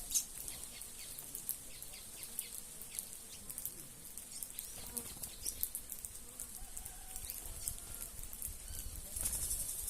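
A flock of small birds chirping together: a dense chatter of short, high calls that grows louder near the end.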